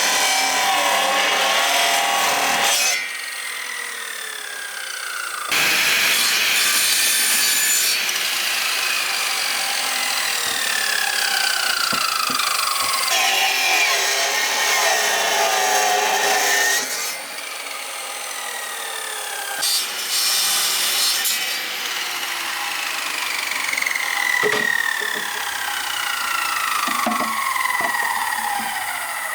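Power saw cutting in three runs with abrupt starts and stops, the longest about eleven seconds, with whining tones that slide down in pitch throughout.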